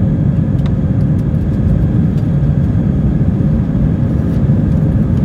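Steady low roar of engines and airflow inside the cabin of an Airbus A320-200 climbing after takeoff, with a faint steady hum above it.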